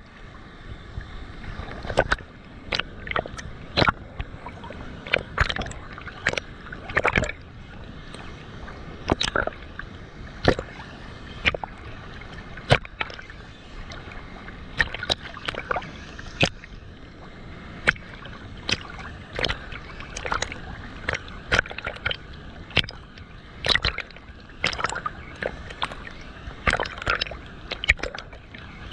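Water splashing and gurgling in irregular sharp splashes, several a second, over a steady rush of water.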